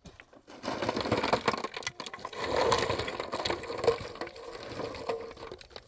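Dense crackling and crunching, a rapid run of cracks and snaps of brittle material being broken or crushed, starting a little under a second in and lasting about five seconds.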